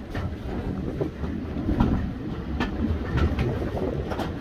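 Heritage railway carriage running along the line, heard at an open window: a steady low rumble with a few scattered sharp clicks.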